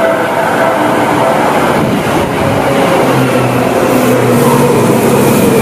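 Yellow Seibu 2000-series electric commuter train running past close by: loud, steady rumble of wheels on the rails with a low hum underneath.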